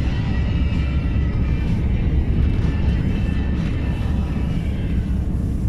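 Steady low rumble of a truck's engine and tyres on a gravel road, heard from inside the cab, with music playing faintly over it.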